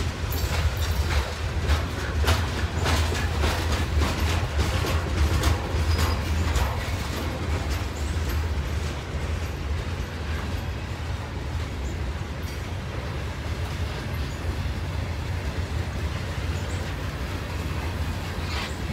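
Covered hopper cars of a freight train rolling past, steel wheels on the rail giving a steady low rumble. Sharp wheel clicks come often in the first several seconds, then thin out to a smoother rumble.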